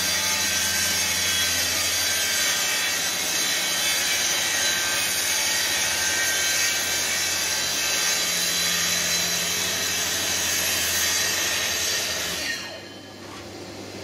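Festool TS 55 track saw running steadily as it cuts through sheet material, then switched off near the end, its motor and blade winding down.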